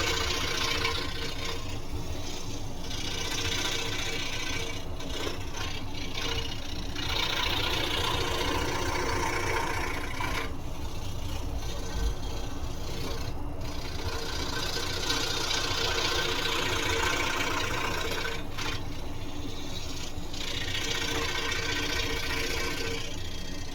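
Scroll saw running and cutting wood: a steady motor hum under a blade hiss that swells and fades every few seconds as the work is fed through.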